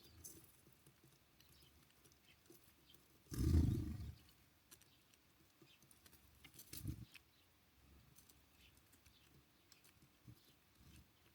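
Birds at a feeder: a dull thump about three and a half seconds in, a smaller one near seven seconds, and faint scattered ticks of pecking and hopping between them.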